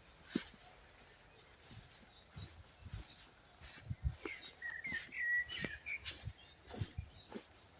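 Small songbirds chirping, with a short warbling phrase about five seconds in, and a few soft low knocks.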